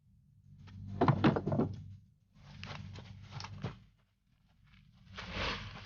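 Gear being handled: three bursts of clattering and knocking, over a faint low hum.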